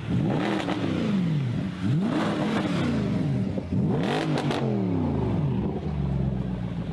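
Mercedes-AMG car engine and exhaust revved three times, each rev climbing quickly and falling back, then settling to a steady idle for the last second or so.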